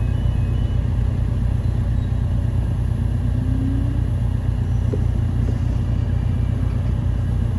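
Steady low rumble of an idling car engine, heard from inside the car's cabin. A faint alternating two-tone beeping from the level crossing alarm stops within the first second.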